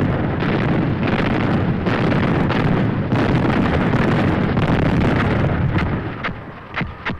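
Continuous rumble of artillery fire and explosions, thick with sharp bursts, thinning out near the end into a few separate cracks.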